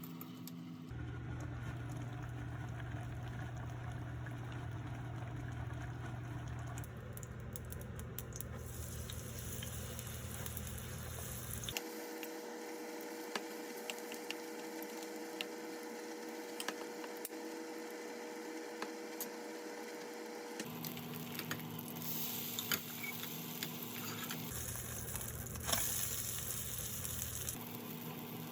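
Food sizzling as it fries in a pan, with small clicks of kitchen utensils. The sound changes abruptly several times, and a steady hum runs under some of the stretches.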